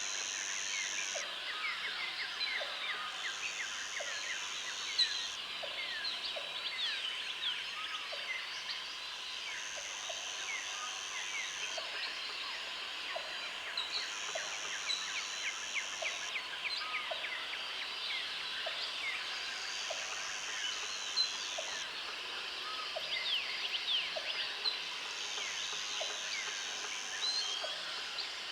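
Countryside ambience of many small birds chirping and calling continuously, with a high steady buzz of a second or two that repeats every four to six seconds.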